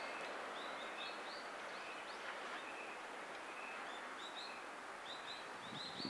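Small wild birds chirping in many quick, short, high calls, thickest near the end, over a steady outdoor background hiss.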